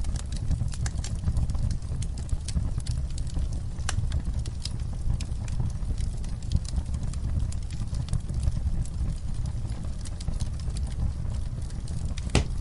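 Wood fire crackling: a steady low rumble of burning with frequent small snaps and pops, and one sharper pop near the end.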